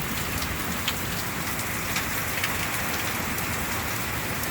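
Heavy rain falling steadily in a hailstorm, with a few sharp ticks of hailstones striking hard surfaces scattered through.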